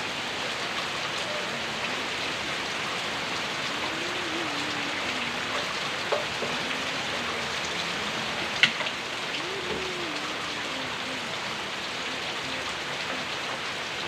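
Heavy tropical rain falling steadily in a downpour, with two sharper taps of drops about six and eight and a half seconds in.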